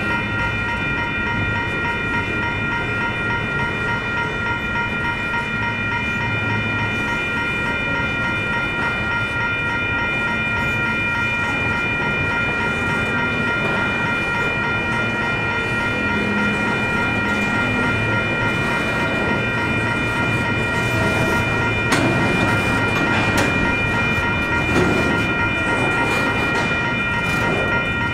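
A long intermodal freight train rolling slowly past, its cars rumbling steadily under a constant high-pitched squeal. A few sharp clanks come in the last few seconds.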